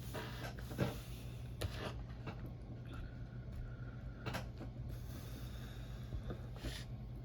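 Close-miked chewing and mouth sounds of someone eating pancakes, with a few short smacks and clicks scattered through, over a steady low hum.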